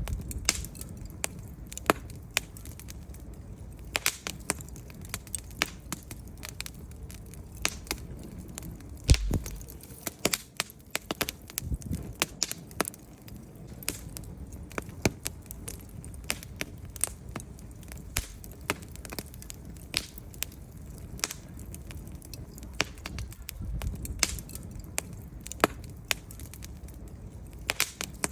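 Wood fire in a fireplace crackling, with irregular sharp snaps and pops over a low steady rumble of flame; one louder pop about nine seconds in.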